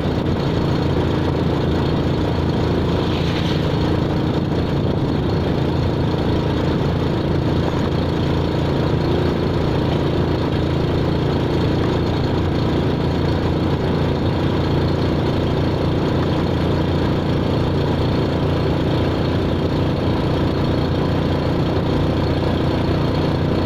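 A vehicle's engine running steadily at an even pitch, with no change in speed.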